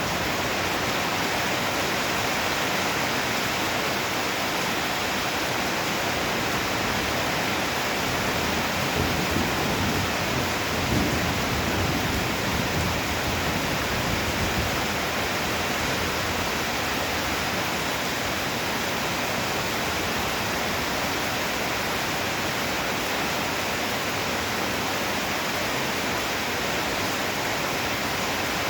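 Heavy downpour, a steady dense hiss of rain, with a low rolling rumble of thunder swelling and fading about a third of the way through.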